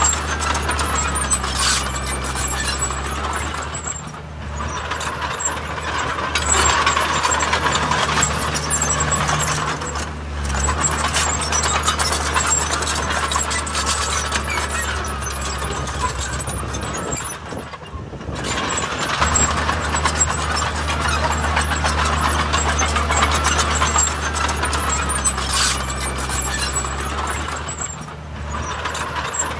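Heavy diesel construction machinery working: a steady low engine drone with a noisier mechanical rattle above it that swells and eases every several seconds, with short dips about 4, 10, 18 and 28 seconds in.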